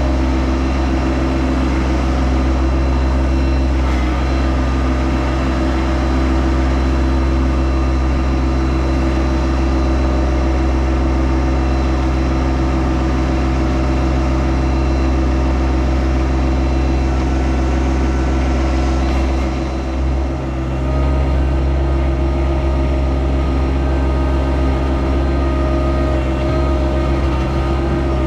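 Yanmar SA324 compact tractor's diesel engine running steadily under load, with a brief dip about twenty seconds in.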